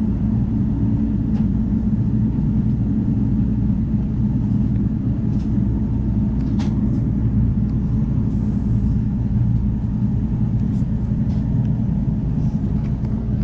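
Steady low rumble of the Amtrak Cascades passenger train running at speed, heard from inside the coach, with a few faint clicks now and then.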